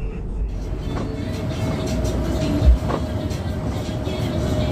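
Cabin noise inside a moving bus: steady engine and road rumble, with one low thump just before the three-second mark. Music plays along with it.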